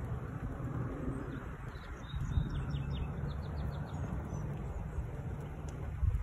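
A bird calling: a quick run of short, falling chirps about two seconds in, over a steady low rumble, with a couple of sharp clicks near the end.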